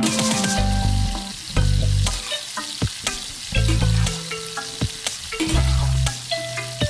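Food sizzling in a frying pan while a utensil stirs it, with sharp clicks and scrapes against the pan. Background music with recurring bass notes plays underneath.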